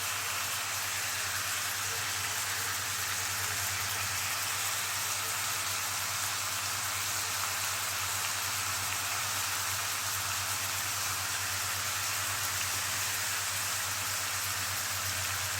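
Seafood frying in oil in a pan, a steady sizzle, over a low steady hum.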